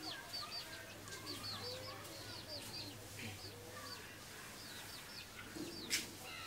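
Birds chirping: a steady run of short, high, falling notes, several a second. A single sharp click about six seconds in.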